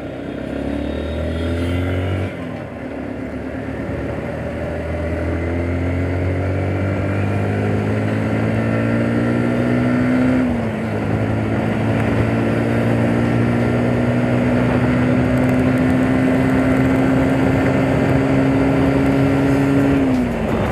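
Yamaha R15 S single-cylinder engine accelerating hard, its pitch climbing steadily. It upshifts about two seconds in and again about halfway through, then pulls long and slowly in the higher gear until another shift near the end.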